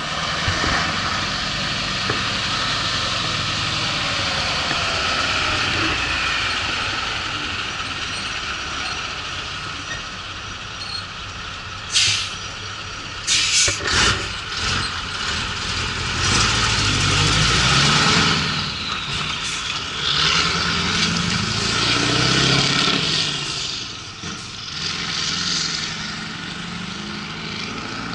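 Scania 141's V8 diesel truck engine idling, then sharp air-brake hisses twice, about twelve and fourteen seconds in. After that the engine revs rise and fall several times.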